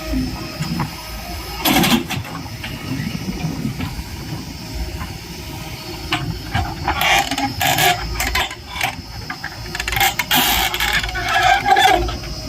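Heavy diesel machinery running, most likely the JCB backhoe loader at work, with a steady low engine rumble. A loud noisy burst comes about two seconds in, and more bursts follow from about seven seconds to near the end.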